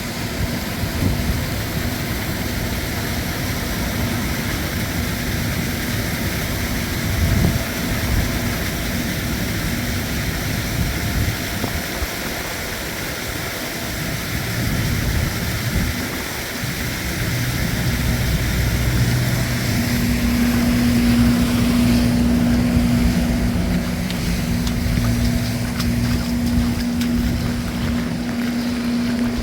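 Heavy rain and wind noise on the microphone over a steady engine or machine hum. The hum gets louder about two-thirds of the way through.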